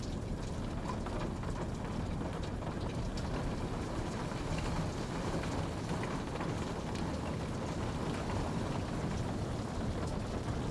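Steady rainfall: an even wash of rain with scattered drop ticks.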